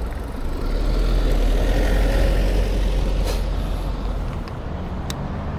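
A large road vehicle such as a truck or bus passing close by, its rumble swelling and then fading over a few seconds.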